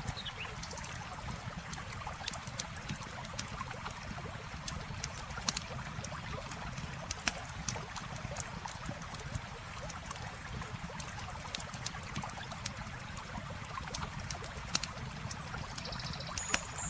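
Campfire crackling with frequent sharp pops and snaps over the steady rush of a stream. A short high bird chirp comes near the end.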